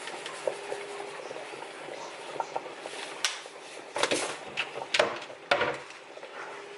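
Kitchen cooking sounds: a pot bubbling on the stove, with a run of clinks and clattering knocks of cookware and utensils between about three and six seconds in.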